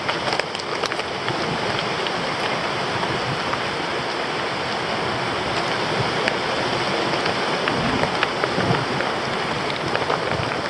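Steady rushing noise of wind on the microphone and an e-bike's tyres rolling over a rough farm track, with scattered ticks and rattles throughout.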